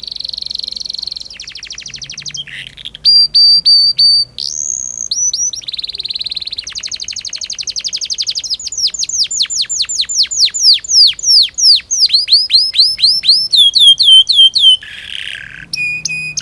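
Domestic canary singing a long, continuous song: buzzy rolls, rapid trills and runs of quick down-sweeping whistled notes, each phrase lasting a second or two before switching to the next.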